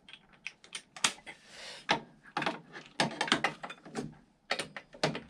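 Metal hand tools clicking and knocking irregularly against the scooter's variator as the 19 mm front nut is worked loose, ending in one loud metallic clank that rings briefly.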